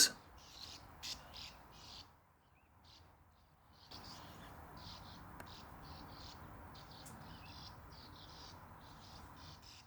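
Faint outdoor birdsong: small birds chirping in short repeated calls over a low steady background hum. It drops almost to silence about two seconds in, then the chirping picks up again for the rest.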